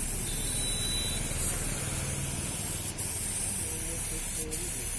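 Steady loud hiss, like air or spray escaping, with a faint thin whine in the first second.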